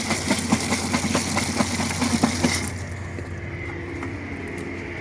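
High-pressure washer spraying water against the muddy truck, a loud hiss full of spattering clicks that cuts off suddenly about halfway through, leaving a steady engine hum.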